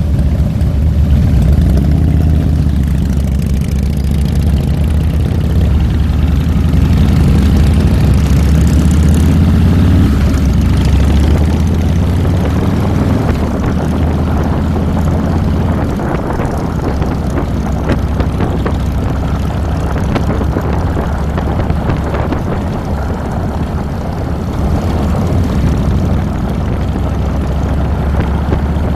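Harley-Davidson Fat Boy's V-twin engine running while the motorcycle is ridden, with wind and road noise over the handlebar-mounted microphone. The engine note rises and falls over the first ten seconds or so, then settles under a steadier rush of wind.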